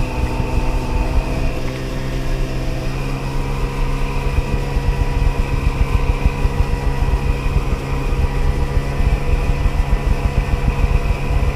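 Sea-Doo XP personal watercraft's 80 hp two-stroke engine running steadily at cruising speed, heard from the rider's seat. From about three seconds in, frequent uneven low thumps sound under it, like the hull knocking on small waves.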